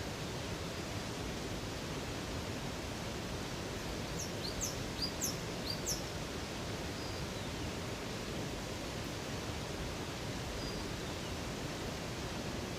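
Steady rush of flowing water from a river or waterfall. About halfway through, a bird gives a quick run of four or five high chirps, and later a couple of faint short whistles.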